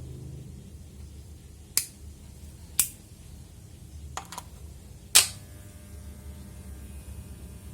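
A few sharp clicks or taps, spaced about a second apart with a quick double click in the middle, the last the loudest, over a low steady hum.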